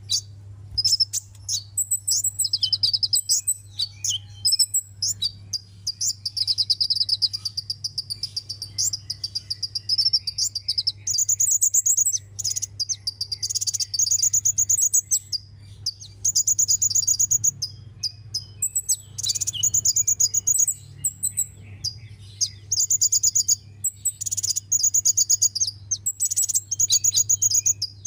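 Sunbird singing: a long run of rapid, high, trilled phrases, each about a second or two long, repeated with short pauses.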